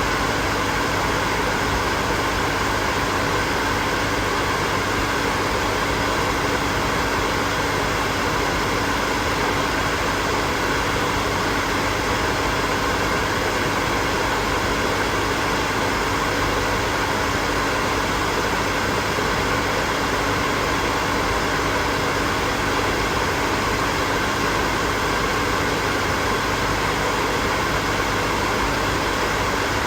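Electric hair dryer running steadily: a constant whoosh of blown air with a faint motor hum under it.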